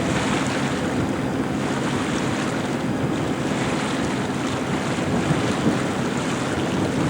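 Wind from the moving boat buffeting the camcorder microphone, with water rushing past the hull: a steady noisy rush.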